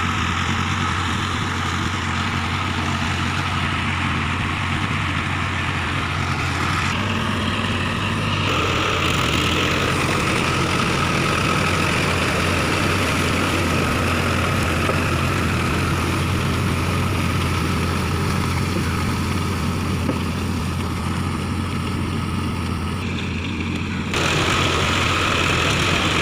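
Mahindra Arjun Ultra-1 555 DI tractor's diesel engine running steadily under field work, with a strong low hum. The sound shifts about seven seconds in and steps up suddenly, louder, near the end.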